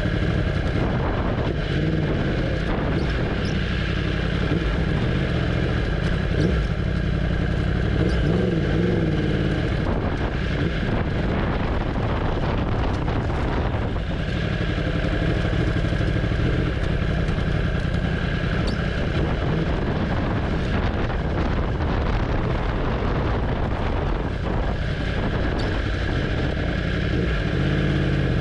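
Yamaha sport bike's engine running at low revs in first gear as the bike rolls slowly at walking-to-jogging pace, its pitch wavering a little with the throttle.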